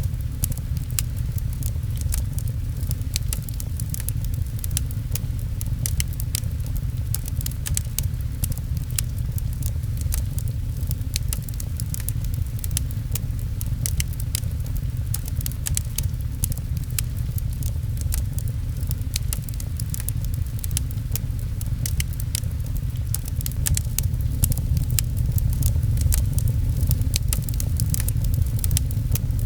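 Fireplace crackling with many small sharp pops, over a steady low rumble and the patter of rain on a window.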